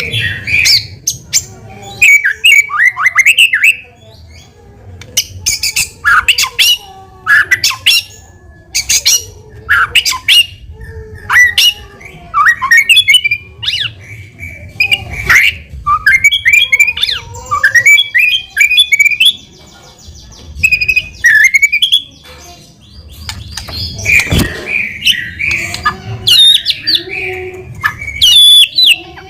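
White-rumped shama in full song: loud bursts of quick, gliding whistles and sharp, clicking notes, broken by short pauses between phrases.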